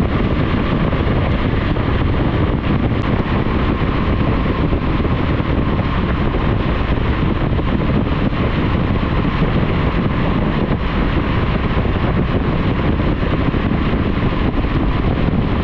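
Steady rush of wind over an action camera's microphone on a motorcycle riding at speed, with the bike's running noise underneath. It stays level throughout, with no change in speed.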